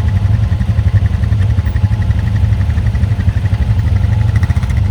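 Quad bike (ATV) engine running steadily with a low rumble.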